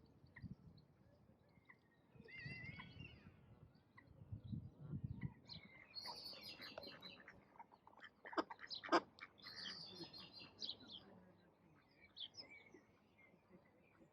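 Ducks quacking faintly, with small birds chirping, and a few sharp clicks about eight to nine seconds in.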